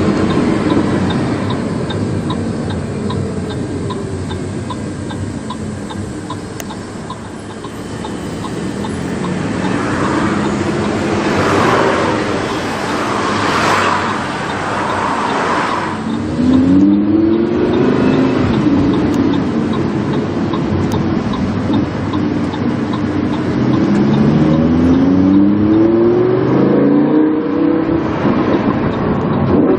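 Lamborghini Huracán's V10 engine with a PowerCraft aftermarket exhaust, heard from inside the car while driving: steady engine and road noise, with the engine pitch climbing under acceleration a little past halfway and again near the end, the second time in several short rising steps.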